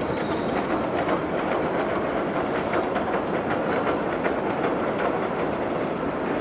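Electric train running on the rails: a steady rumble with quick, irregular clicks of the wheels passing over rail joints.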